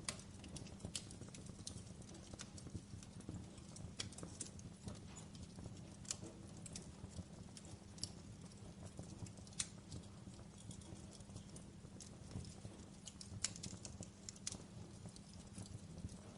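Wood campfire crackling: sharp pops and snaps at irregular intervals over a steady low rumble.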